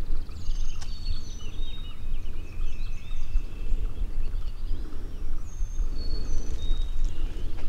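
Wild songbirds singing: several high, clear whistled notes, some sliding down, mixed with quick chirps, over a steady low rumble.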